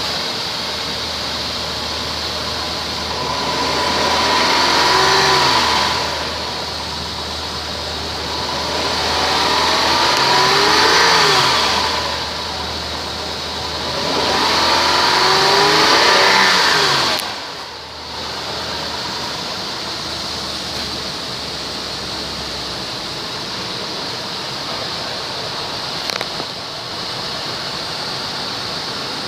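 2003 Honda Pilot's 3.5-litre V6 running: idling, then revved up and let fall back three times, each rev a smooth rise and fall in pitch. After the third rev the engine note drops away sharply, leaving a steady, even running noise.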